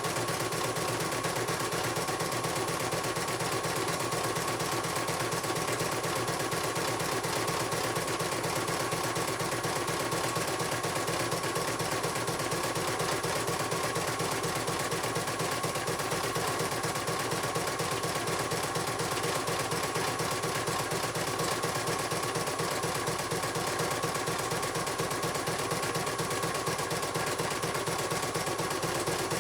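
CNY computerised embroidery machine stitching: a fast, even run of needle strokes with a steady motor whine.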